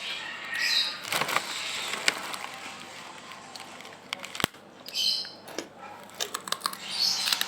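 Crunching and chewing of a crispy roasted-corn-flavoured snack, heard as irregular crackles and sharp clicks.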